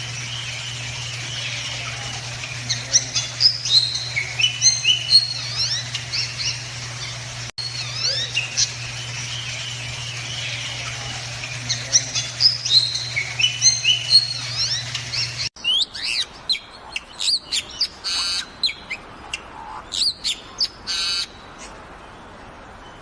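Bali mynas (Bali starlings) calling: a busy run of short whistles, chirps and gliding notes over a steady low hum. About two-thirds of the way in the sound cuts to sharper, harsher calls, including two long buzzy, rasping calls near the end.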